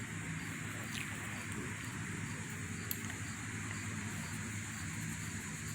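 Faint steady outdoor background: a low hum and a hiss, with one soft click about three seconds in.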